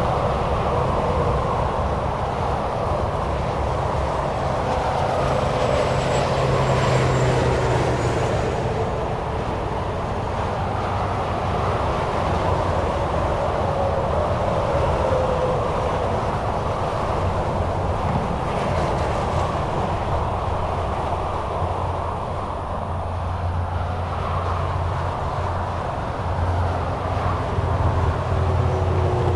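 Highway traffic passing at speed: a continuous rush of tyre and engine noise with a low hum. Now and then a passing vehicle's tone slides down in pitch as it goes by.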